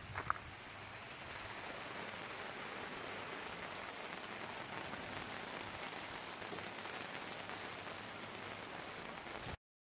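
Steady rain falling, an even hiss with scattered faint drop ticks, which cuts off suddenly near the end.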